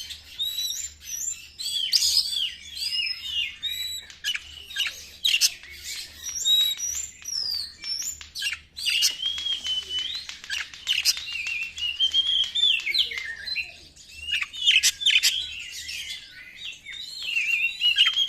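Oriental magpie-robin (kacer) singing a fast, agitated 'konslet' song. It is a dense, unbroken run of varied whistles and slurred notes mixed with sharp clicks and rasps.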